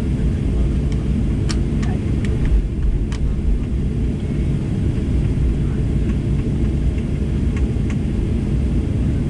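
Steady low cabin rumble of a Boeing 737-800 on the ground after landing, its engines running at idle. A few light clicks come through, a cluster about a second and a half in and two more near the end.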